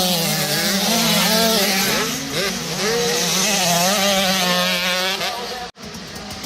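Several motocross bikes racing together, their engines revving up and down and overlapping. The sound cuts off abruptly near the end.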